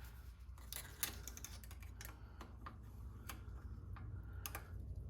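Irregular light metallic clicks and taps of small steel parts being worked by hand as pins are fitted into a Spartan locker in a Chrysler 8.25 differential.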